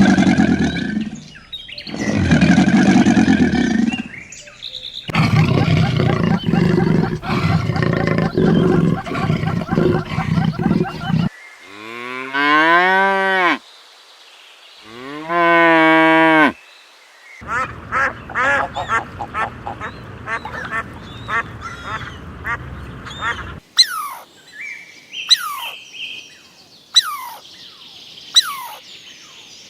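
A run of different farm animal calls, one clip after another with abrupt cuts: loud low calls at the start, rasping calls, two long wavering calls near the middle, and short falling chirps near the end.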